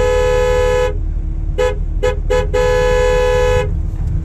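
Two-tone vehicle horn honking: a long blast, then three quick toots, then another long blast, over a steady engine rumble.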